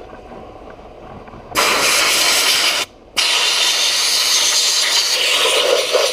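Harbor Freight sandblast gun spraying glass bead media under compressed air onto an oxidized KZ400 engine: a loud hiss starts about one and a half seconds in, stops briefly near the three-second mark, then runs again as a longer second blast.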